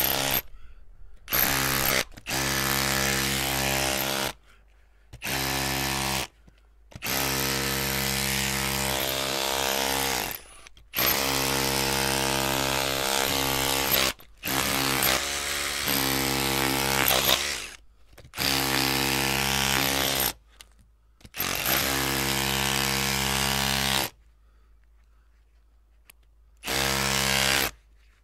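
Electric drill motor running at a steady pitch in repeated bursts of one to four seconds, switched on and off with short silent gaps between runs and a longer pause near the end.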